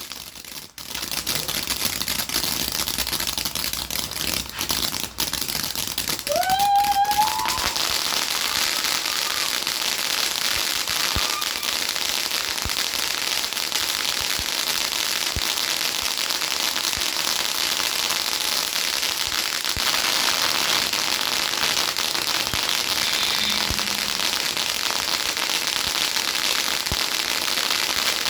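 Multi-shot consumer firework cake going off without letup, a dense crackling. About six seconds in, a short rising whistle sounds over it.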